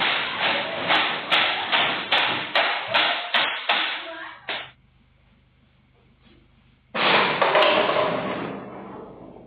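Rapid repeated banging, about two or three strikes a second for over four seconds, made to scare off wild elephants. After a short pause, a sudden loud rushing sound starts about seven seconds in and fades over about two seconds.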